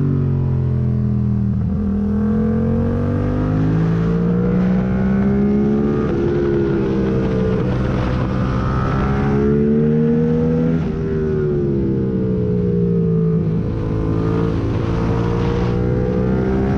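2021 Yamaha MT-07's parallel-twin engine through a full MIVV exhaust with the catalyst removed and no dB killer, ridden hard through curves. The revs climb, drop back, climb again for several seconds, fall away for about three seconds as the throttle is rolled off, and rise once more near the end.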